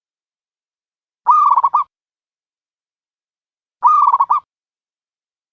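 A dove's cooing call, a quavering phrase of about half a second, given twice about two and a half seconds apart. The calls are identical, a looped recording used as a lure to call doves into a trap.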